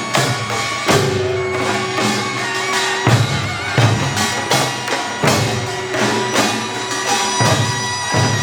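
Korean pungmul percussion ensemble playing: drum strikes and metallic gong hits in an uneven rhythm, with a held melody line sounding above the beat.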